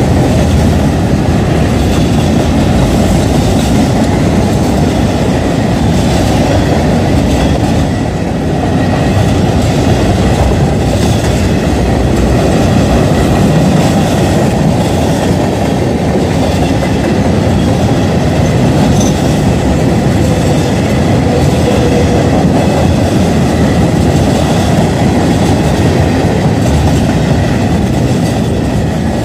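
Kansas City Southern freight train rolling past on the rails, a loud, steady rumble of wheels and cars.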